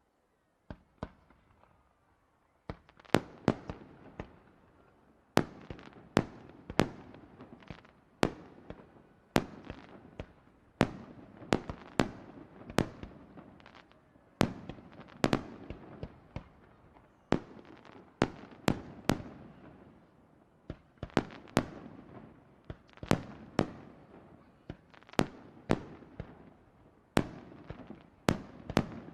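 Fireworks shells bursting one after another, a steady run of sharp bangs about one to two a second, each with a short echoing tail.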